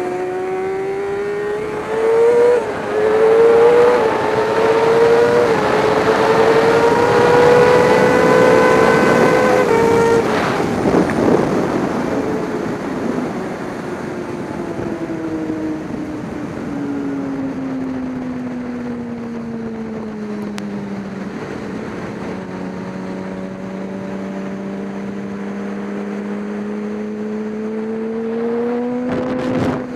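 Race vehicle's engine accelerating hard through several quick upshifts, then the revs falling away over several seconds as it slows, holding low and steady, and climbing again near the end.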